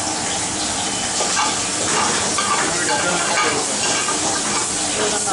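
Steady sizzling hiss of cooking in a kitchen.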